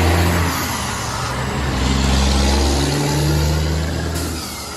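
Recorded truck engine sound running steadily with a low hum, starting and cutting off abruptly like an inserted sound effect.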